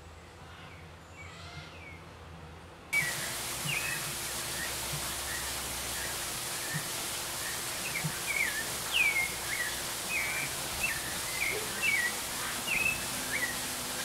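Birds chirping in short, repeated hooked calls, about one or two a second, over a steady hiss. About three seconds in the hiss suddenly gets louder and the chirps get clearer.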